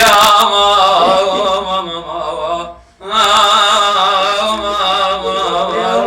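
A man chanting an Iraqi Shia funeral lament (naʿi), holding long wavering melismatic notes without words. Two drawn-out phrases, with a short breath about halfway through.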